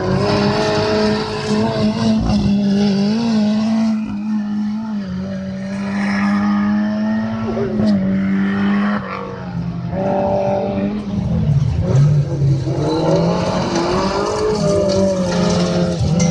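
Autocross race car engines running hard at high revs, the pitch rising and falling again and again as they accelerate and lift.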